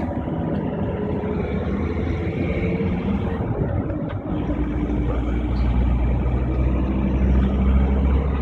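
Vehicle engine and road noise, steady, with a low rumble that grows louder from about halfway through.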